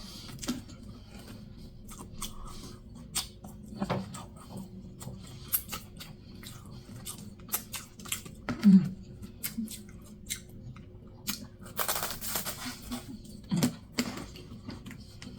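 Close-miked eating: wet chewing and lip smacking of hot food, with many quick crackly clicks and crunches, a thicker crunchy stretch about twelve seconds in, and a short low mouth sound near the middle.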